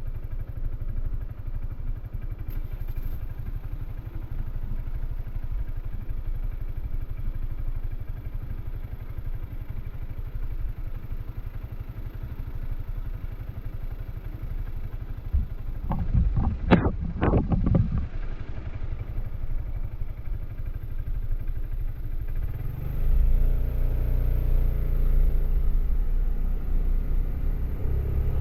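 Suzuki Burgman 400 maxi-scooter's single-cylinder engine on its stock exhaust, running at a steady low idle-like drone. About two-thirds of the way through comes a brief loud clatter. Near the end the engine revs up with rising pitch.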